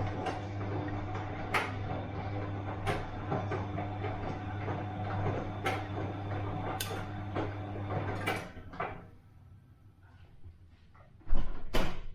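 Bosch washing machine running: a steady low motor hum with irregular sharp clunks. The motor stops about two-thirds of the way through, and a single loud thump comes near the end.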